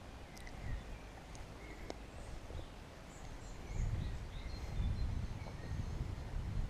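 Small songbirds chirping and twittering, with short high calls scattered through and a few sharp ticks in the first two seconds. About four seconds in, a low rumbling noise rises underneath and becomes the loudest sound.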